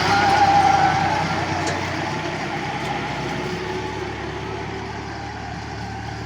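Tractor engine running under way, with a steady whine over the engine note, growing steadily fainter.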